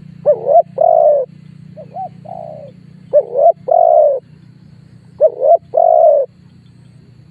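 Spotted dove cooing: four phrases, each two short notes and a longer drawn-out coo, the second phrase fainter than the rest. A steady low hum sits underneath.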